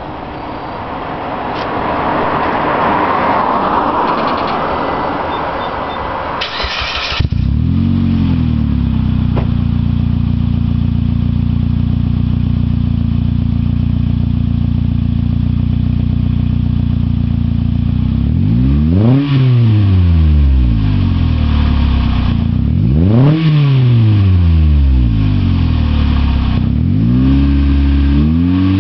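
A 2008 Mitsubishi Lancer's four-cylinder engine with a Tsudo cat-back exhaust starts about seven seconds in, after a rushing noise, and settles to a steady idle. It is then blipped three times, the exhaust note rising and falling back each time.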